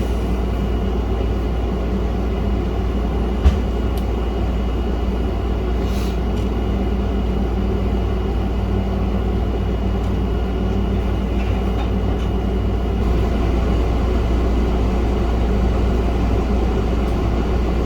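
Steady low hum and rumble of background noise, with a single sharp click about three and a half seconds in.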